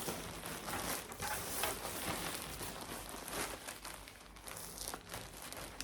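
Irregular rustling and crinkling of packaging and clothing being handled and unfolded.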